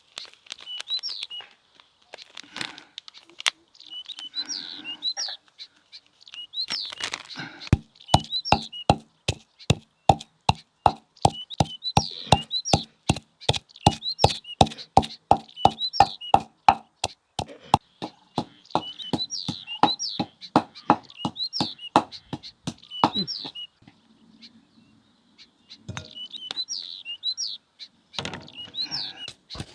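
Small birds chirping again and again. From about eight seconds in to about twenty-three seconds, a run of quick, even knocks sounds over them, about three a second.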